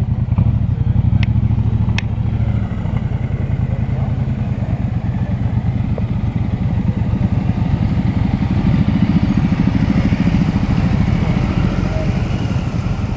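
Motorcycle engine running steadily with a low, rapidly pulsing note that shifts slightly about three seconds in.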